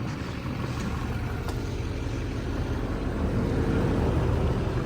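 Vehicle engine running steadily at low speed, a continuous low rumble.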